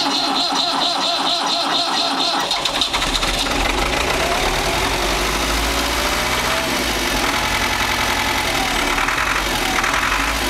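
Ford 6600 tractor's three-cylinder diesel cranking on the starter motor in a cold start, catching about three seconds in on ether starting fluid and then running steadily.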